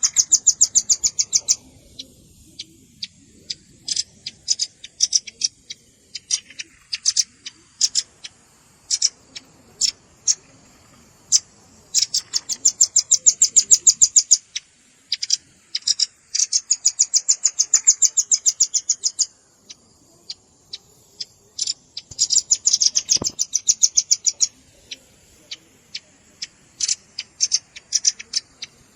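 Velvet-fronted nuthatch calling: rapid runs of high, sharp repeated notes lasting one to three seconds, with single chips scattered between the runs.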